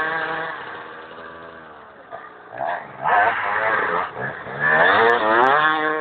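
Motocross bike engine revving in bursts, the pitch sinking at first, then climbing and dropping again, with the loudest, rising rev in the last second and a half.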